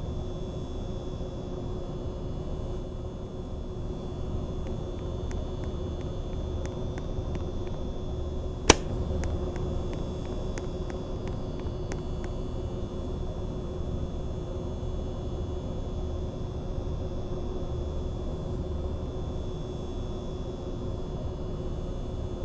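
Mistral ceiling fan running: a steady motor hum with a slow, regular throb underneath. About a third of the way through there is one sharp click, among a scattering of faint ticks.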